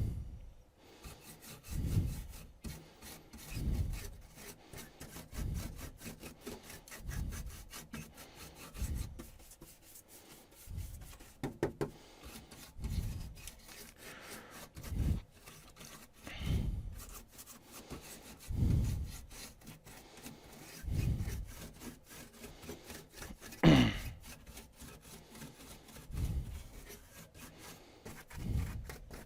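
Steady back-and-forth scrubbing on a TV's power supply circuit board as it is cleaned, one stroke about every one and a half to two seconds with small clicks between. Late on comes one short, sharp squeak that falls in pitch.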